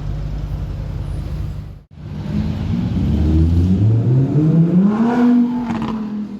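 A sports car's engine running with a steady low rumble. After an abrupt cut, a car accelerates hard, its engine note rising for about three seconds, then easing off near the end.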